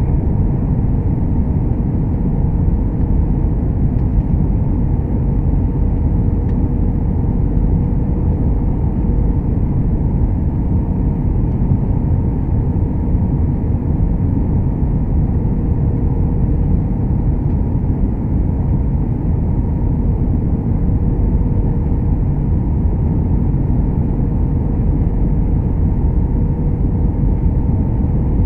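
Airbus A321-200 airliner noise: a loud, steady low rumble with a thin, even hum above it that does not change.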